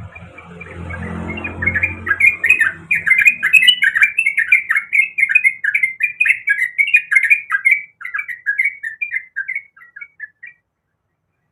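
A trucuk (bulbul) singing loud and full, a long fast run of chattering notes that starts about a second and a half in and trails off shortly before the end. A low rumble runs underneath at the start and fades out within the first few seconds.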